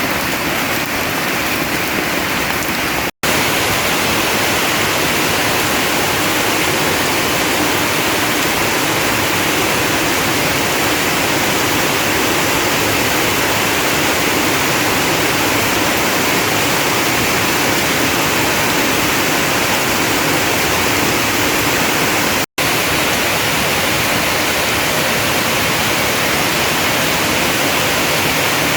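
Heavy storm rain pouring down, a loud, steady hiss. The sound drops out for an instant twice, about three seconds in and near the end.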